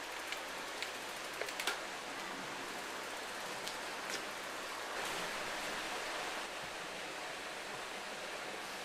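Steady rush of a small river's flowing water, with a few short faint clicks in the first few seconds.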